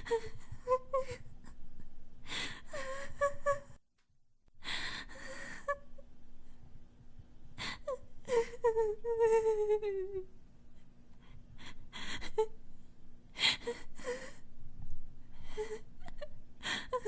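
A person crying hard: sobs and whimpers broken by sharp gasping breaths in, with a long falling wail about eight to ten seconds in. There is a brief dead-silent break near four seconds, like a cut between two recordings.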